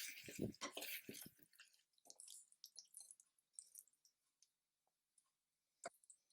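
Faint kitchen handling sounds: a quick run of soft knocks and clicks at the start, then a few light ticks and one sharp click near the end.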